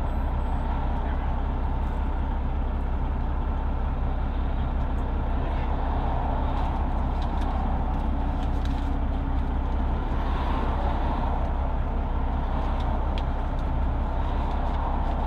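Semi truck's Detroit Diesel engine idling with a steady low rumble.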